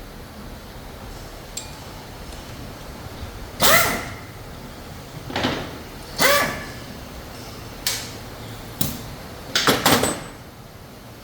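Metal engine parts knocking together as they are handled during assembly: a handful of sharp clanks, some with a short metallic ring, and a quick cluster of knocks near the end, over steady background noise.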